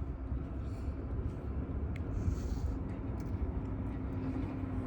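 A steady low outdoor rumble, with a faint steady hum coming in about halfway through and a single light click about two seconds in.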